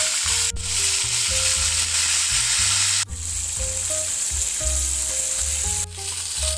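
Chicken steak sizzling as it fries in a pan, a dense steady hiss that jumps abruptly about half a second in, about three seconds in and near the end. A music track's bass and melody run underneath.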